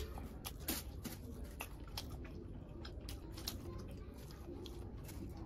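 Close-miked eating: a mouthful of rice and chicken curry being chewed, with short, irregular wet clicks and smacks from the mouth.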